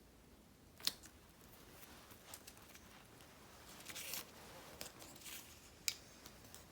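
Quiet desk crafting sounds of paper stickers being cut and handled: two sharp scissor snips, one about a second in and one near the end, with soft paper rustling around the middle.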